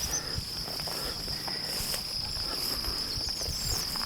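Crickets singing in a steady, continuous high trill, with faint rustling underneath.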